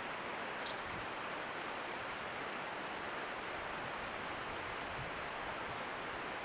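Steady, even hiss with a thin high whine running through it, and no distinct event.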